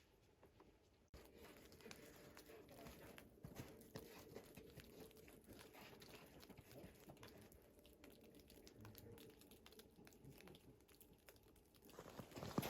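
Faint footsteps crunching on the forest floor, a dense patter of small crackles that grows louder near the end.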